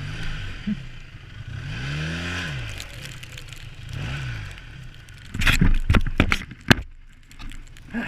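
2012 Arctic Cat F1100 snowmobile's four-stroke twin engine revving up and dropping back three times. About five seconds in comes a quick string of loud knocks and rattles lasting a second or so.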